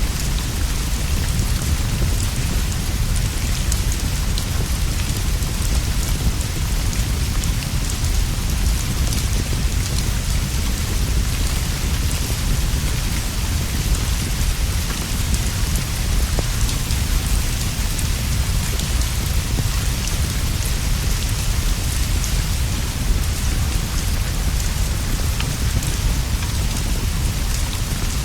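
Steady rain falling on leaves and a straw roof, an even hiss over a constant deep rumble, with scattered faint ticks.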